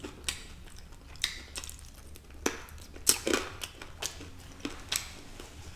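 Close-miked eating sounds: chewing with irregular wet mouth clicks and smacks, about eight sharp ones scattered through.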